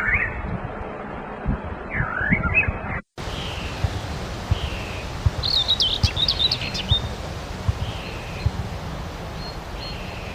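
Wild birds calling over a steady outdoor background: quick chirps at first, a brief cut to silence about three seconds in, then a short burst of rapid high chirps and a soft falling note repeated about every second and a half.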